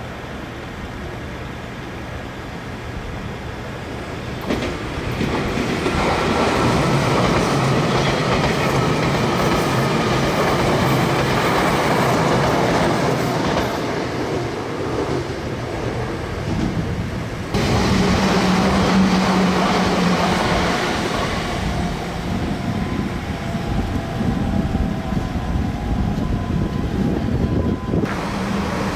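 Nagoya Railroad electric trains running on the track, several recordings joined end to end. The sound grows louder about four seconds in, carrying a steady hum, then changes abruptly about two-thirds of the way through and again near the end.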